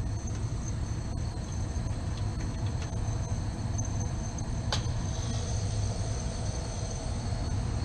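Steady low hum of running machinery, with a single sharp click almost five seconds in.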